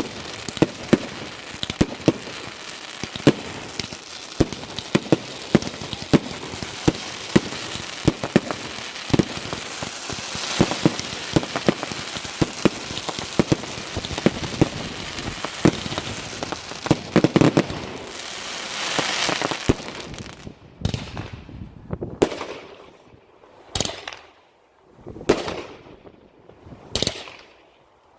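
Consumer display fireworks going off: rapid bangs over continuous crackling for most of the time. Near the end, a run of single shots, each a hiss lasting about a second, follows roughly every one and a half seconds.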